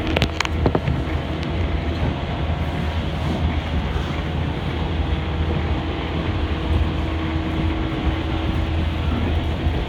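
Shinano Railway 115 series electric train running between stations, heard from inside the carriage: a steady rumble of wheels on rail with a low hum. A few sharp clicks come in the first second.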